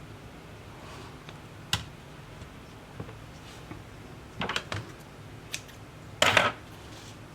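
Light clicks and taps of small tools and parts being handled during a tablet repair, coming a few at a time, with the loudest clatter about six seconds in, over a steady low hum.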